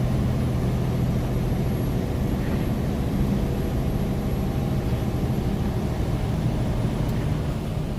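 Semi truck's diesel engine running steadily under way, heard from inside the cab as an even low drone with road noise.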